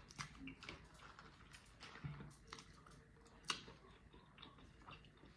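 Faint close-miked chewing: small, irregular wet mouth clicks and smacks of a person eating, with one sharper click about three and a half seconds in.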